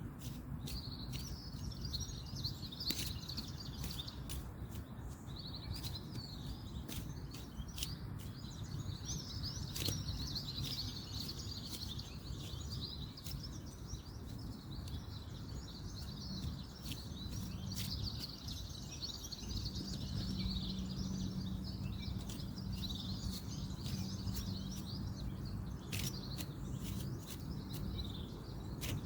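Songbirds chirping busily over a steady low rumble of distant road traffic, with scattered sharp clicks throughout. A faint steady hum joins in about halfway through.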